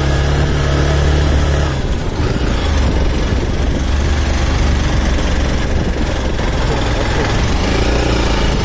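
Motorcycle engine running steadily while riding, under a constant rush of wind noise on the microphone. The engine note shifts about two seconds in.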